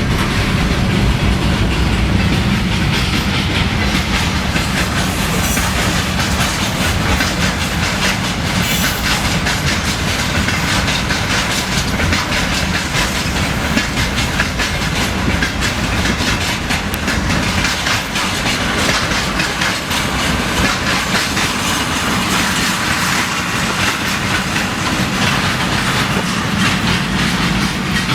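Train running on rails, its wheels clicking steadily over the rail joints with a continuous rumble.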